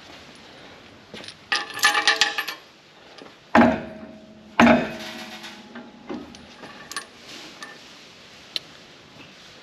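Loose steel bolts jingling together as they are handled, then two sharp metal clanks that ring on briefly, about a second apart.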